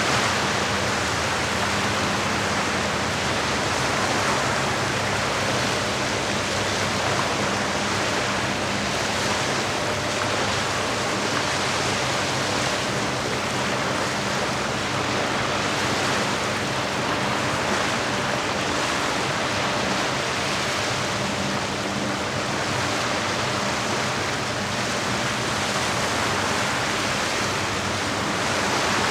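Steady, unbroken wash of lake water, with a faint low hum underneath.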